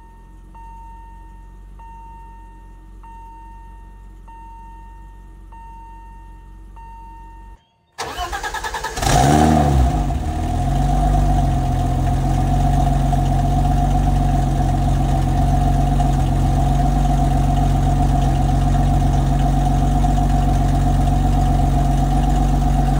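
A quiet stretch with a beep repeating about once a second, then the 1989 BMW 325i's 2.5-litre straight-six is cranked by the starter for about a second, catches with a quick rev flare and settles into a steady idle, heard close at the tailpipe.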